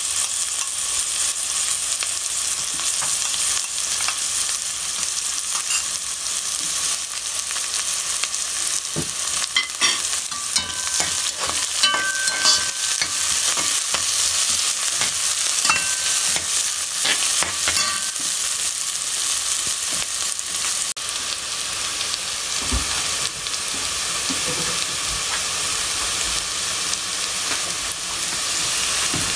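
Food sizzling in hot oil in a pan while it is stirred. A spoon scrapes and clinks against the pan in a busy stretch in the middle, and there is a single low knock later on.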